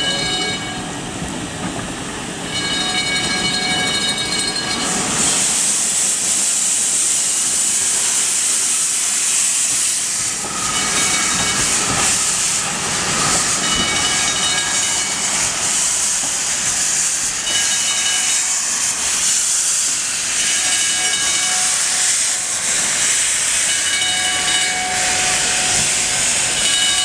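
Hudswell Clarke steam locomotive moving slowly, with loud, steady steam hiss from about five seconds in. Its whistle gives one toot about three seconds in, and brief high ringing tones come and go through the rest.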